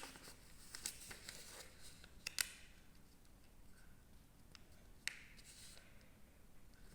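Faint crinkles and soft clicks of coloured paper being folded and creased by hand, a few sparse taps, the clearest about two and a half seconds in.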